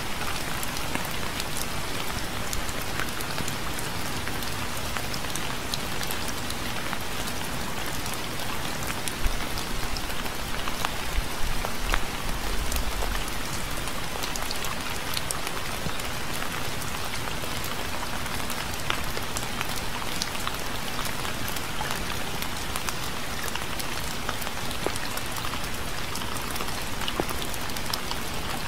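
Steady rain falling on a surface, an even hiss with scattered individual drop ticks. A few louder low thumps come between about a third and half of the way through.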